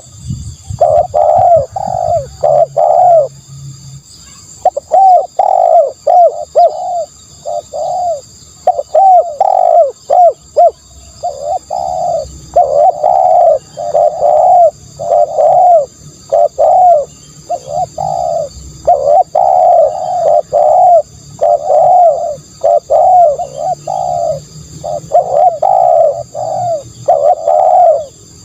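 Spotted dove cooing over and over, phrases of several low coo notes separated by short pauses. It is a decoy call, played to lure doves.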